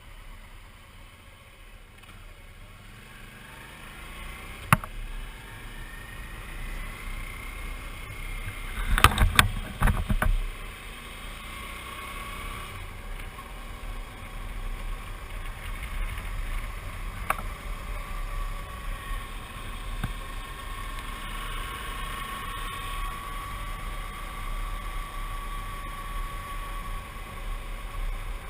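Suzuki V-Strom 650 motorcycle on the move, its running sound growing louder over the first several seconds and then holding steady, with a faint tone that settles to one pitch. A single click about five seconds in and a short cluster of knocks around nine to ten seconds in.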